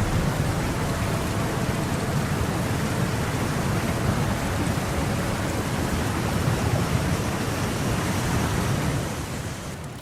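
Steady, loud rushing noise, heaviest in the low rumble, that fades out near the end.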